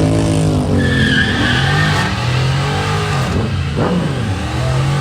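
A car engine revving hard, its pitch climbing and falling several times, with tires squealing for about a second near the start.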